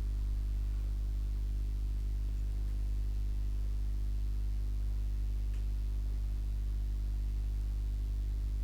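A steady low hum with no other sound.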